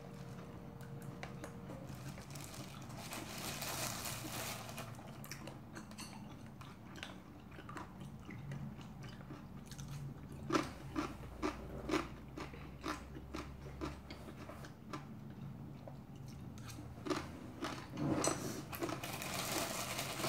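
A person chewing close to the microphone, with a run of sharp crunches about halfway through and more near the end: the crunch of chewy-crisp pork cartilage (odolppyeo) in spicy rice.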